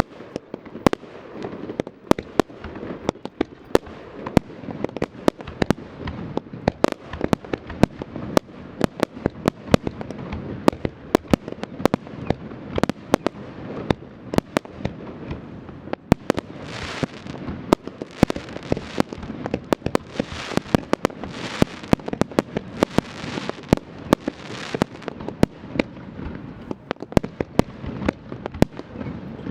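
Aerial fireworks display: a fast, continuous barrage of shell bursts and crackling bangs, with a run of repeated hissing rushes about a second apart from about halfway through.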